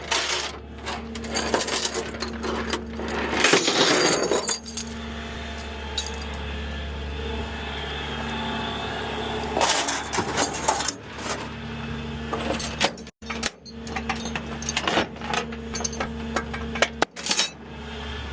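Tow truck engine running steadily, with repeated metallic clanks and rattles over it.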